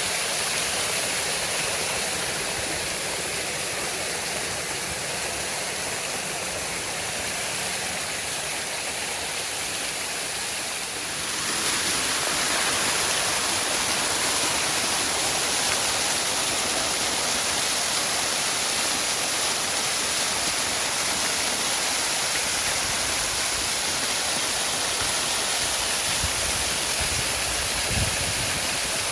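Waterfall: a steady rush of falling water that turns louder and brighter about eleven seconds in, with a brief low thump near the end.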